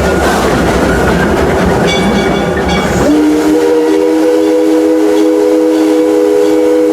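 Steam train running along the track with a steady rumble and clatter of wheels. About three seconds in, the locomotive's steam whistle sounds one long blast of several notes at once, still going at the end.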